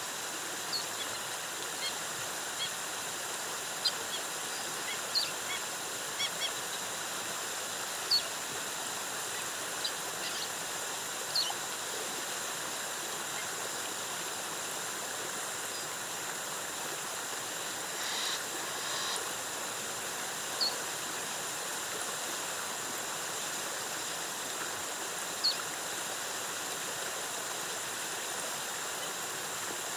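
Steady rush of falling water from a rainforest waterfall, with short, high bird chirps scattered over it every second or few.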